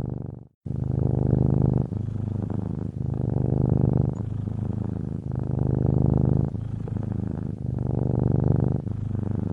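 Domestic cat purring steadily, in a low rumble that swells and eases in turn about every second as the cat breathes in and out. The sound drops out briefly about half a second in.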